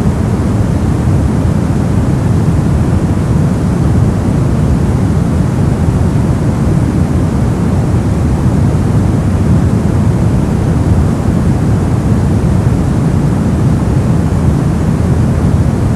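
Brown noise: a steady, deep rushing hiss, strongest in the lows and falling away toward the highs, with no change or pattern.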